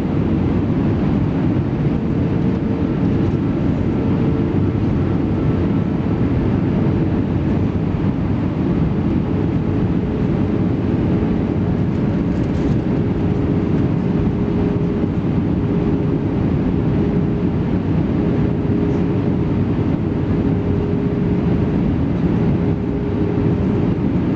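Steady cabin noise inside an Airbus A320-214: the CFM56 engines and the rushing airflow, with a steady engine hum that drops slightly in pitch about nine seconds in.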